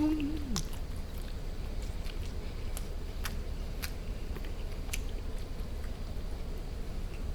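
A person chewing barbecued duck close to the microphone, with a few sharp wet mouth clicks spread through the chewing. A hummed voice trails off just at the start.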